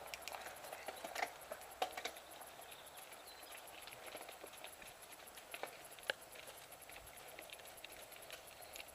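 Mountain bike rolling along a dirt singletrack: a steady tyre rustle with irregular sharp clicks and knocks as the bike rattles over stones and roots, busiest in the first couple of seconds.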